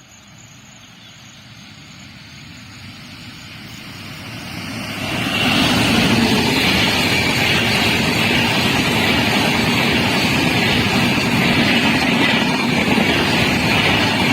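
Train approaching on Indian Railways track and running past close by: wheel and rail noise builds over about five seconds, then stays loud and steady as the train passes.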